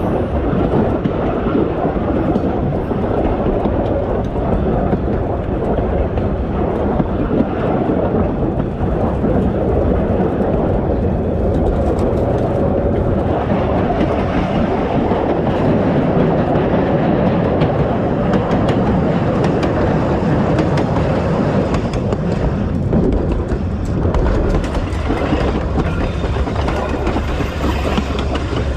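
A Queensland Rail 2000 class diesel railmotor running steadily along the track, with a constant rumble and light clicking of its wheels over the rails.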